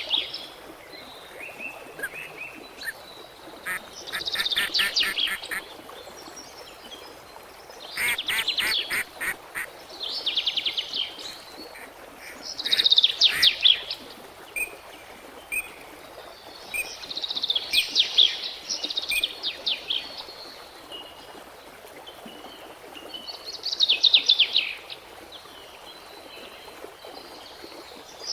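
Birds calling in repeated harsh, rapid chattering bursts every few seconds, over a steady background hiss.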